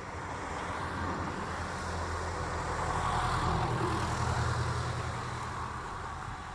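A train passing: a low drone under a rushing rolling noise that swells to its loudest about midway, then fades.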